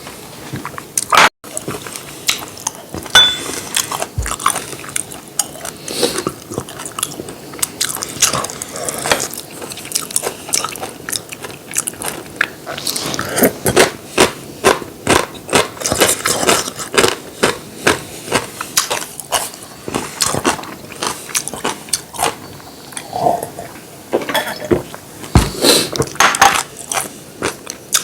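Close-miked eating: irregular crunching bites and chewing, several sharp crunches a second.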